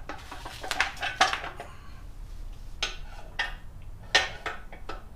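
Steel parts of a motorcycle lift jack clinking and knocking as its height lock is handled and fitted: a quick cluster of clinks about a second in, then a few separate metal knocks.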